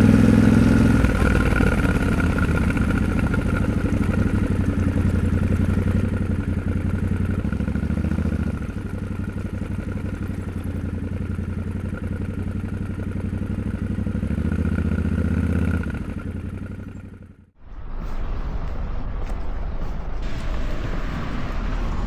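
Yamaha Tenere 700's 689 cc parallel-twin engine running at low speed, its pitch stepping a couple of times. About 17 seconds in the engine sound fades away, leaving a quieter outdoor background with light clatter.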